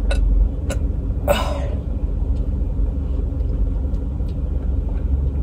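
A steady low background rumble, with a few small clicks and a brief rustling noise about a second and a half in.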